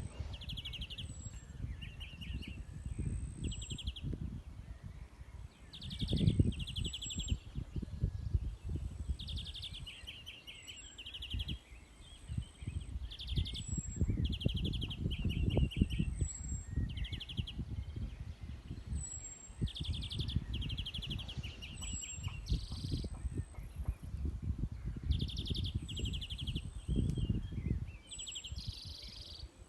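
European greenfinch calling: short rapid trills repeated every second or two, with thin, high falling notes between them, over a constant low rumble of background noise.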